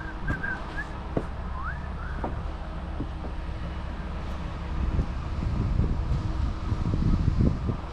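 Steady low drone of a concrete boom pump truck's engine running, with wind buffeting the microphone in gusts over the last few seconds.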